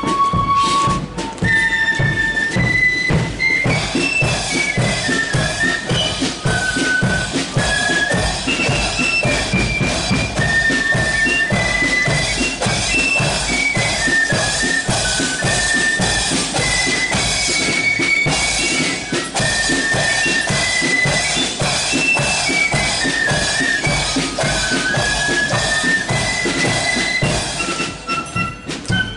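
Marching flute band playing: a shrill unison flute melody over a steady beat of bass and snare drums.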